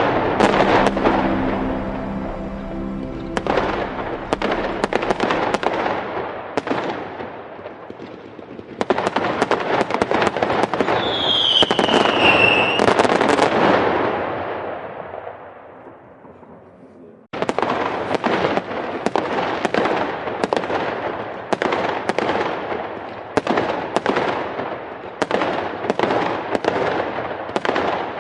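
Fireworks: dense, rapid crackling and popping, with a short falling whistle about twelve seconds in. The sound fades, cuts off abruptly near the middle, then the crackling restarts at full strength.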